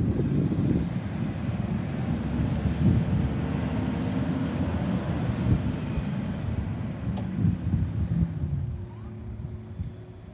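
Garbage truck running: a steady low engine rumble that drops off somewhat near the end.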